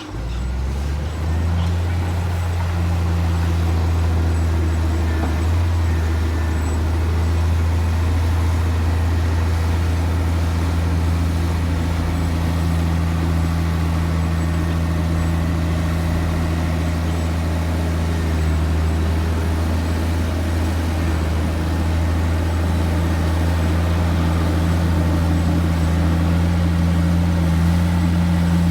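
Heavy diesel engine of earthmoving machinery running steadily under a constant, low drone with no pauses.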